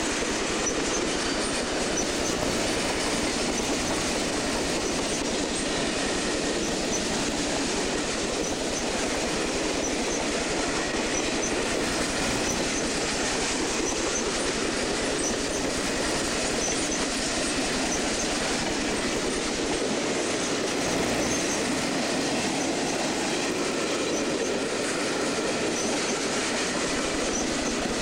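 Freight train cars rolling past on the rails: a steady, unbroken noise of steel wheels on track, with small high-pitched squeaks scattered through it.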